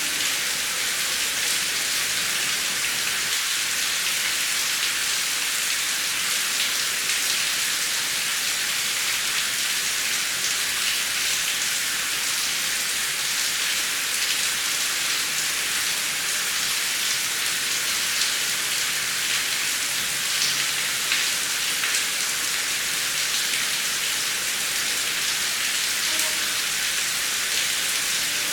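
Heavy rain falling steadily, an even hiss with fine patter of individual drops.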